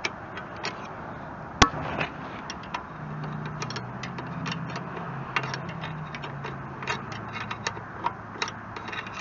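Irregular metallic clicks and taps of hand tools on the Kubota BH77 backhoe's joystick control nuts and linkage, with one sharp, louder click about one and a half seconds in.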